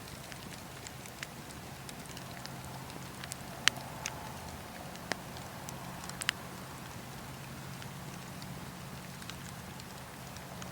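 Campfire burning with a steady hiss and scattered sharp crackles and pops, the loudest single pop a little past a third of the way in and a quick double pop about two thirds in.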